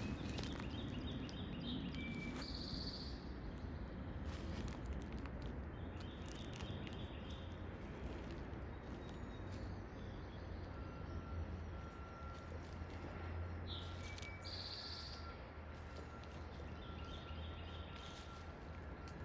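Songbirds singing outdoors: a repeated phrase of quick trilled notes ending in a higher buzzy note, heard twice, with other scattered chirps, over a steady low rumble and background hiss.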